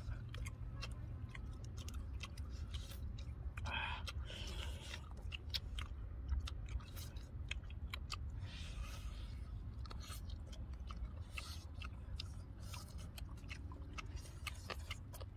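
Close-up eating sounds: chewing, lip smacks and the tearing of cooked duck meat off the bone, many small irregular clicks and crunches, over a steady low rumble.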